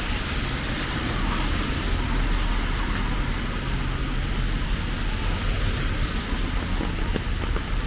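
Steady rain hiss over a low, steady rumble of road traffic.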